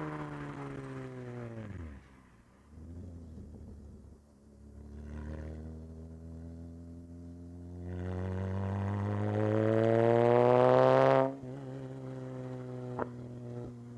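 Toyota 2GR 3.5-litre V6 in a mid-engined MR2 running under load. Its revs fall away at first, then climb steadily for several seconds to the loudest point, cut off suddenly as the throttle comes off, and settle to a steadier lower note.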